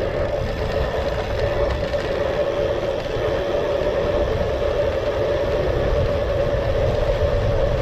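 Wind buffeting the microphone of a camera on a moving bicycle, a steady low rumble, with a steady mid-pitched hum running under it.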